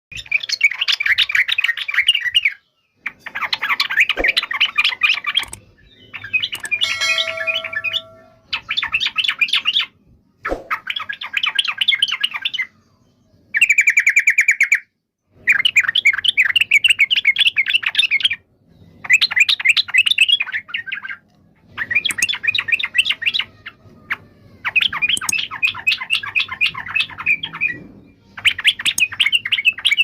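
Yellow-vented bulbul (trucukan) singing: repeated bursts of quick, chattering notes, each a couple of seconds long, with short pauses between.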